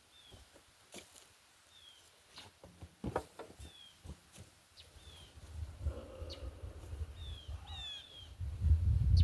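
Small birds chirping: short falling chirps repeated every second or so. Scattered clicks and knocks, and a low rumble that grows loudest near the end.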